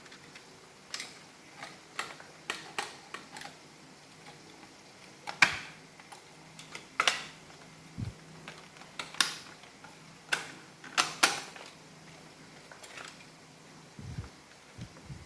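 Irregular clicks and clacks of the Roomba's plastic parts being handled and fitted together by hand, with a few louder snaps in the middle and a couple of dull low thumps.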